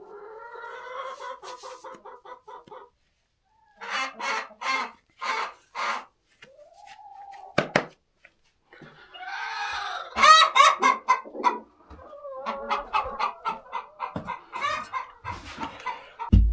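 Adult chickens clucking and cackling, pitched calls in quick runs with short pauses between them, loudest about ten seconds in.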